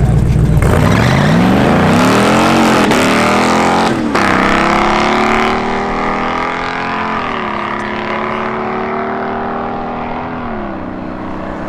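L83 5.3-litre V8 in a swapped Mazda launching off the drag-strip line at full throttle. The engine note climbs steeply for about two seconds, then drops at each upshift, around three, seven and ten and a half seconds in, growing fainter as the car pulls away down the track.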